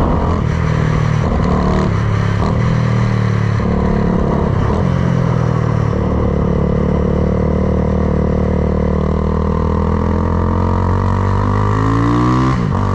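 Honda Grom with a swapped-in CBR300R single-cylinder engine running while being ridden. Its note rises and drops in steps over the first few seconds, holds steady, then falls away near the end.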